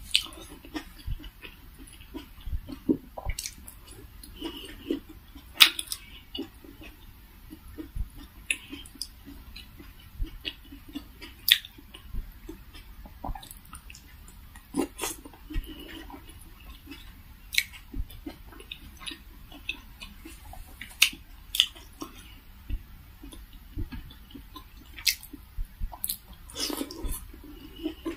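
A person chewing steamed vegetable momos, with irregular mouth sounds and frequent short sharp clicks.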